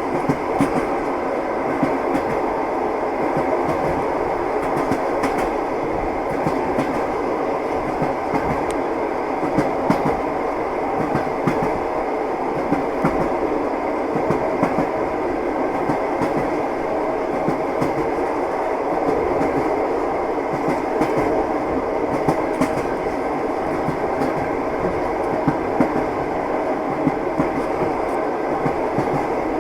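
Train wheels clattering on the rails as a train runs along the track: a steady rumble with frequent short, irregular clicks and knocks.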